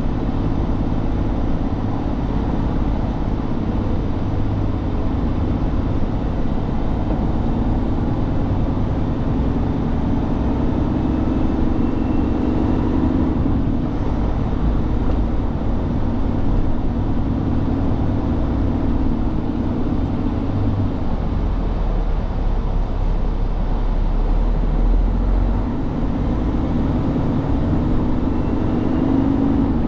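Semi truck running on the road, a steady rumble of engine and road noise whose low engine tone swells and eases every several seconds.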